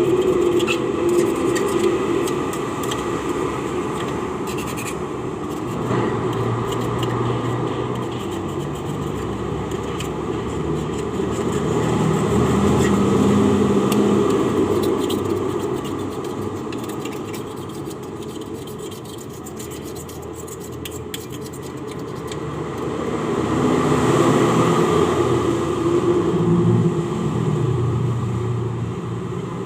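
Continuous engine noise of passing motor vehicles, growing louder about twelve seconds in and again near the end.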